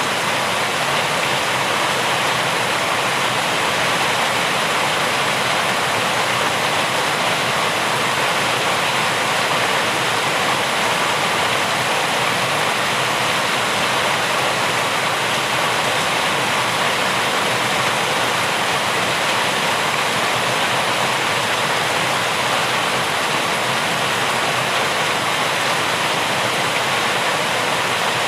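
Rain falling steadily, an even hiss with no single drops or pauses standing out.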